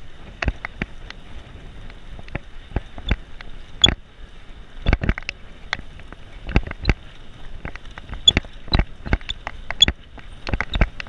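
Bicycle and its handlebar-mounted camera rattling over the road surface: irregular sharp clicks and knocks, several a second at times, over a steady hiss of wind and rolling noise.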